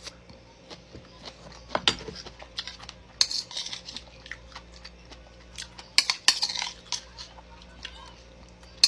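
Eating by hand from a plate: scattered light clicks and clinks of the dish, with a few brief scraping and smacking sounds.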